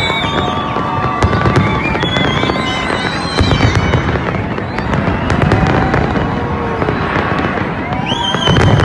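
Large fireworks display: a continuous barrage of shells bursting, with rapid bangs and crackling overlapping one another.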